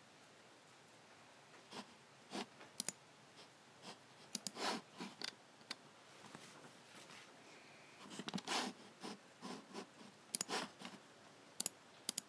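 Logicool (Logitech) G7 computer mouse buttons clicking at an irregular pace, some clicks in quick press-and-release pairs, with a few longer, softer scuffs in between.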